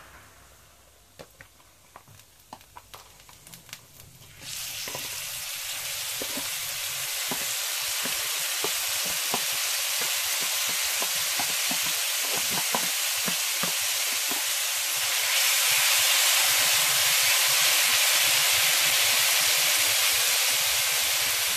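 A few light taps, then about four seconds in a loud steady sizzle starts as diced tomatoes hit hot garlic-and-oil in a stainless steel frying pan. The sizzle grows louder later on.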